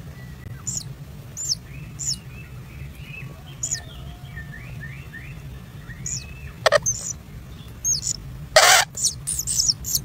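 Kingfishers chirping: short, high, falling chirps repeating about once a second, with a softer lower trill in the middle, over a steady low hum. A sharp click comes shortly before seven seconds in, and a loud brief rustle about eight and a half seconds in.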